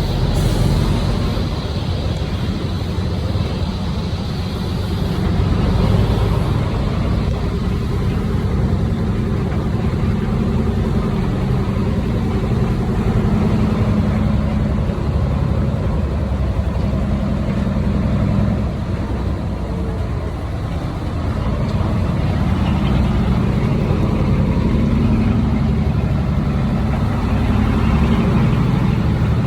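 Heavy diesel earthmoving machinery at work, chiefly a bulldozer's engine running with a deep, steady rumble. Its loudness rises and falls every few seconds as the load changes.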